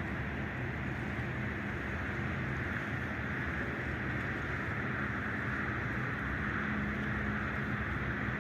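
A steady low engine-like hum under a constant hiss, unchanging throughout.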